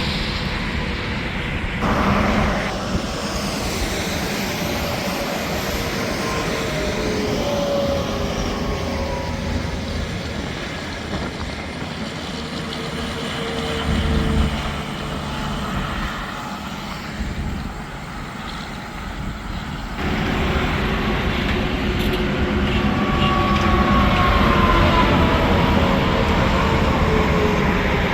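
Interstate highway traffic with tractor-trailers passing at speed: steady tyre and engine noise, with tones that slide down in pitch as vehicles go by, louder over the last several seconds.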